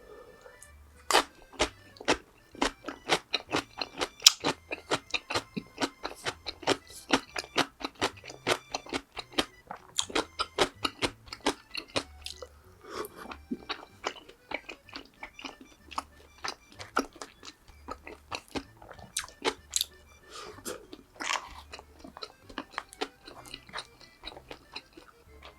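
Close-miked crunching and chewing of crisp fried food. The crackles come fast and dense for about the first twelve seconds, then thin out to slower, sparser chews.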